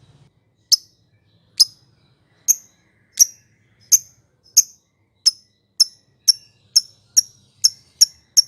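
Lovebird giving short, sharp, high chirps one at a time, speeding up from about one a second to two or three a second: the quickening build-up of a lovebird's ngekek trill.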